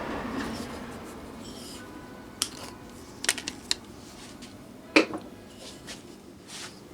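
A few sharp metallic clicks and taps from small hand tools handling a finish nail. The clicks are separate, with a quick run of three near the middle and the loudest about five seconds in.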